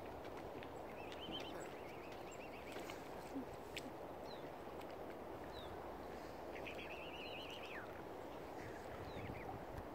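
Birds calling: a short wavering call about a second in and a longer, stronger one about seven seconds in, with a few faint chirps, over a steady background hiss.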